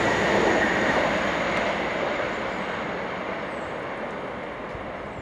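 Passenger train running through a station at speed, its rail and wheel noise fading steadily as it draws away, with a faint high whine that dies away with it.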